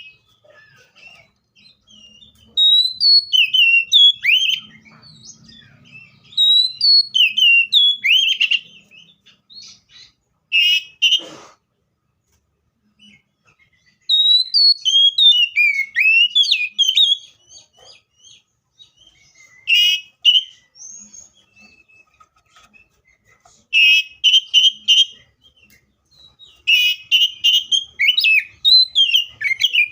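Seychelles magpie-robin singing: loud bursts of quick, varied whistled phrases and runs of rapid repeated notes, broken by short pauses.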